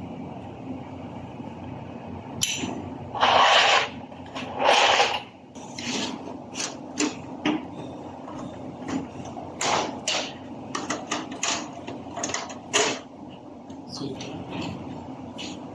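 Workshop clatter: tools and metal parts clinking and knocking at irregular intervals over a steady hum, with two short hiss-like bursts about three and five seconds in.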